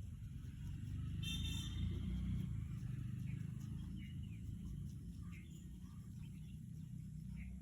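Birds chirping: one brief, bright, high call about a second in, then a few short chirps later on. Under them runs a steady low rumble, which is the loudest sound.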